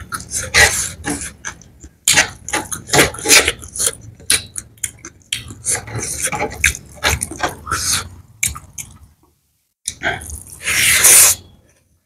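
Close-up wet chewing and lip-smacking, many quick clicks and squelches of mouth and fingers in food eaten by hand, with short pauses. About ten seconds in comes a longer, louder slurp.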